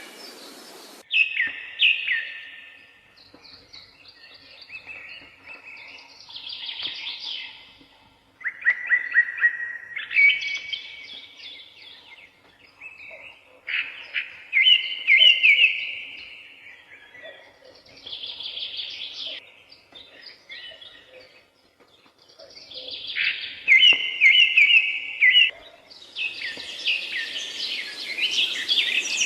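Woodland songbirds singing: short phrases of quick repeated whistled notes, with a pause of a second or two between phrases. A denser chorus of several birds starts near the end.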